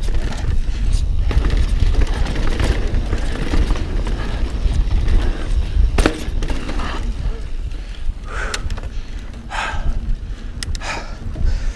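Mountain bike rolling over a rough dirt trail: tyre noise and rattling of the bike, with wind rumbling on the helmet-camera microphone and a sharp knock about six seconds in.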